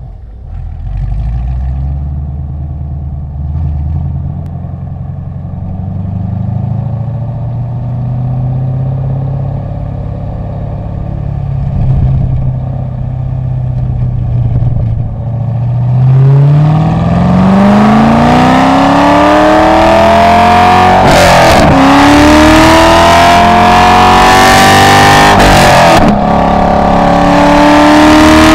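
A car's engine heard from inside the cabin. For the first half it runs steadily at low revs while rolling slowly. From about halfway it goes to hard acceleration: the revs climb steadily, then fall back at two quick upshifts about five seconds apart before climbing again.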